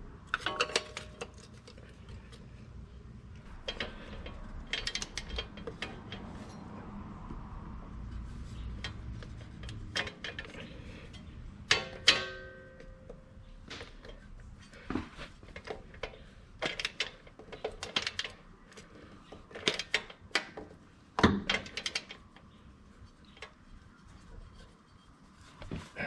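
Metal hand tools and parts clinking, tapping and clattering at irregular intervals. About twelve seconds in comes one louder, ringing metal clink.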